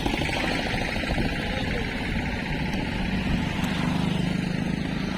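Motorcycle riding along the road: a steady engine hum over road and wind noise. The hum grows stronger from about three seconds in.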